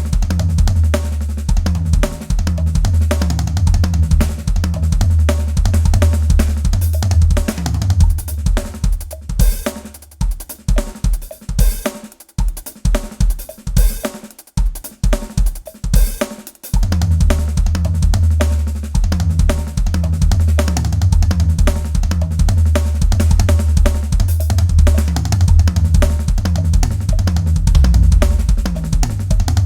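Drum kit played in fast gospel-style chops, with kick, snare and cymbals over a backing track carrying a steady bass line. About nine seconds in, the backing drops out for a stretch of broken-up drum phrases with gaps between the hits, and it comes back in around seventeen seconds.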